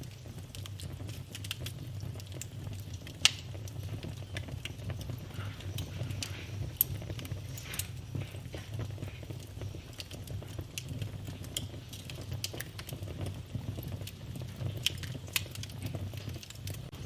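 Wood fire in a fireplace crackling: a steady low rumble of flames under scattered sharp pops and snaps, two of them louder, about three and seven seconds in.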